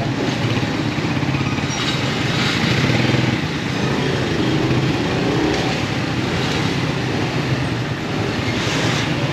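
Motorcycle engine running steadily while riding in traffic, under a constant rush of wind and road noise. About halfway through, a short pitch dips and then rises again.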